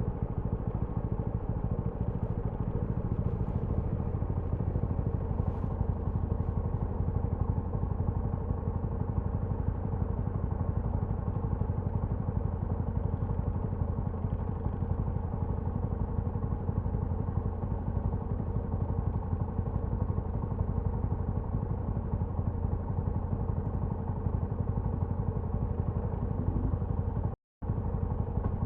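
TVS Apache RTR 200 4V's single-cylinder engine and exhaust running at fairly steady revs while the motorcycle is ridden. There is a brief break in the sound near the end.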